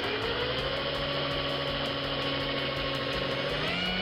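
Electric drill motor running steadily as it drills out a rivet post on a diecast model car, its whine rising in pitch near the end.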